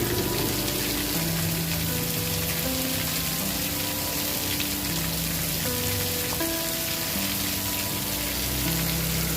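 Steady hiss of rain, even and without distinct pops, with soft held musical notes underneath that shift pitch every second or two.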